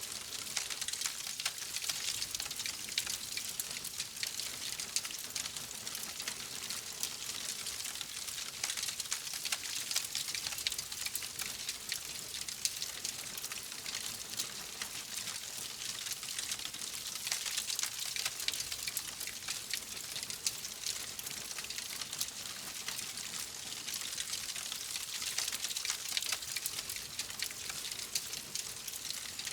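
Fireplace fire crackling steadily: many small, quick pops over a soft high hiss.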